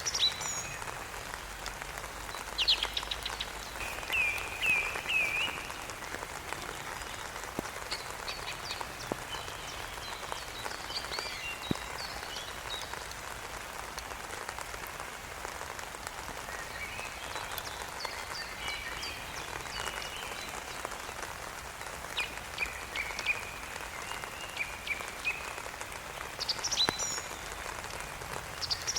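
Steady rain falling on surfaces, with short, high chirping calls coming in groups every few seconds.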